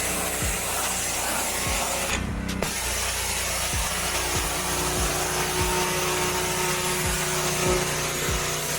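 Ryobi 2900 PSI gas pressure washer running steadily, with the hiss of its high-pressure water spray over the engine; the spray cuts out for a moment about two seconds in while the engine keeps running.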